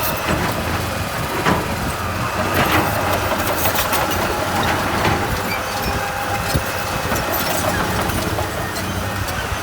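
Heavy earthmoving machine's engine running steadily, with a few sharp metallic clanks.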